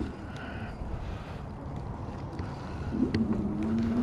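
Wind buffeting the microphone and tyre rumble from a moving electric bike. About three seconds in, the e-bike's hub-motor whine comes in and rises slowly in pitch as the bike speeds up.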